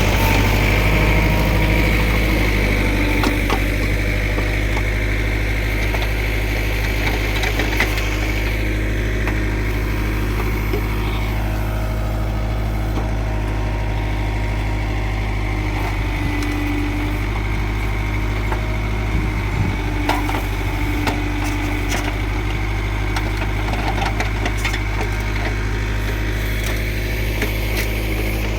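Kubota MU4501 tractor's diesel engine running steadily, with a few light clicks and knocks over the engine's hum.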